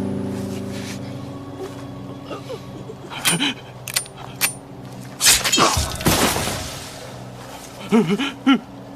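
Drama soundtrack: a held music chord fading out, then a few sharp clicks with a short ring, and about five seconds in the loudest sound, a loud crash with a noisy tail. Short gasping vocal sounds follow near the end.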